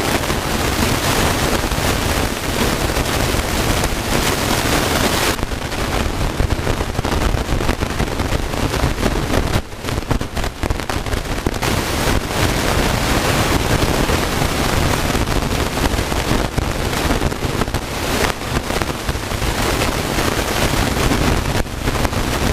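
Wind buffeting the microphone: a loud, steady rush of noise with a few brief dips.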